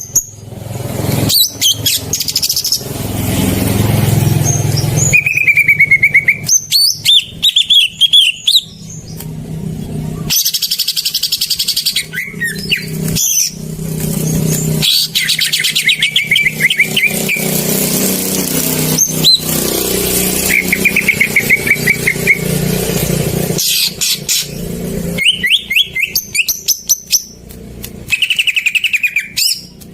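Green leafbird (cucak ijo) singing in rapid chirping trills and short sweeping phrases, repeated with brief gaps, over a steady low rumble. This is lure song meant to set off a caged leafbird that has stopped singing.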